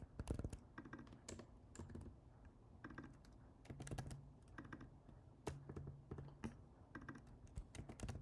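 Computer keyboard typing: faint, irregular keystrokes and short runs of keys as text is entered and deleted.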